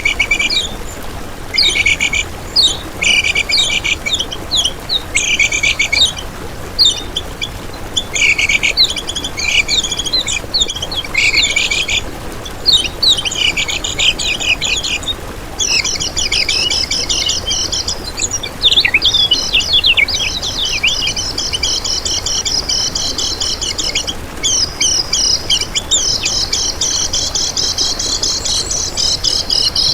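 Common iora (kecial kuning) singing: short bursts of quick chirping phrases for about the first half, then an unbroken fast trilling chatter from about halfway on.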